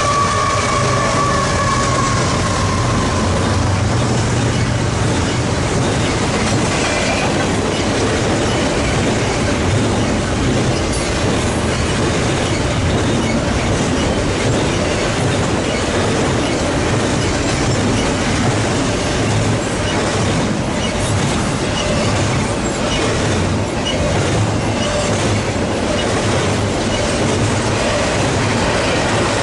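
Double-stack container train cars rolling past at speed, a steady rumble of wheels on rail with clacking over the joints. A wheel squeal slides down in pitch and fades in the first few seconds.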